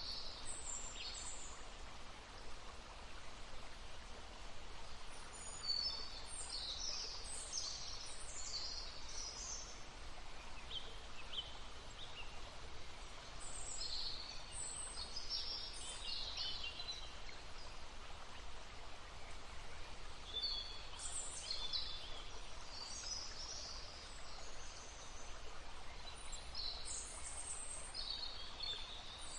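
Songbirds singing in short, high phrases that come in clusters every few seconds over the steady rush of a babbling stream.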